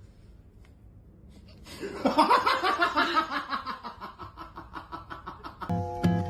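A person laughing: a fast run of chuckles that starts about two seconds in, is loudest at first and trails off. Background music comes in near the end.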